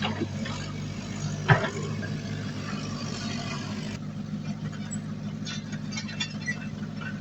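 Heavy diesel engine of earthmoving equipment running steadily, with scattered clinks and one loud metallic knock about a second and a half in.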